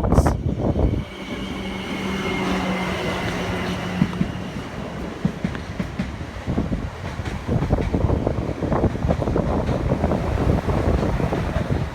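South West Trains Class 444 electric multiple unit passing close by, with a steady hum for the first few seconds and then its wheels clattering over the rail joints.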